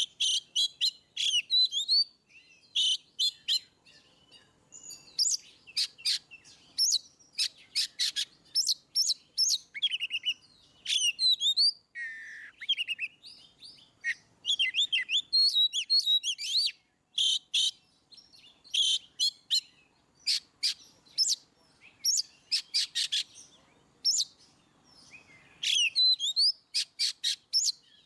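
Oriental magpie-robin (kacer) in full song: a varied run of quick whistled slurs and rapid sharp notes, delivered in short phrases with brief pauses between them.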